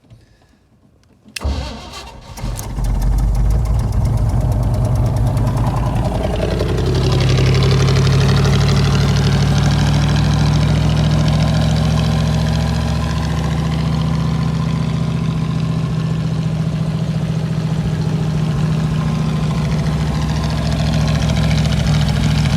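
A 1973 Chevy K20 pickup's engine, cold and long unused, being started with the choke closed. About a second and a half in it cranks briefly and catches. It then runs, and its speed rises a few seconds later to a steady high idle on choke.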